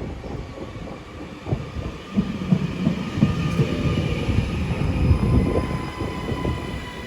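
Class 331 electric multiple unit moving along the platform: a low rumble of wheels on rail that swells in the middle, with a steady whine from its electric traction equipment.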